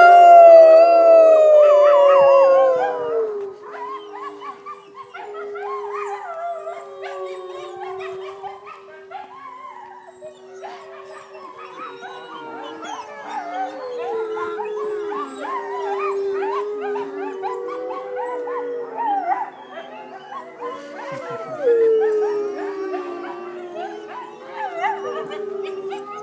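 Wolves howling in chorus: a loud, long falling howl in the first few seconds, then many overlapping howls, one voice holding a steady low note under the rest, swelling and fading in waves.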